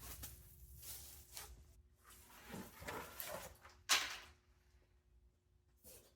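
Rustling and scraping of old cardboard packaging being handled and pulled apart, in irregular bursts, with a sharp knock about four seconds in.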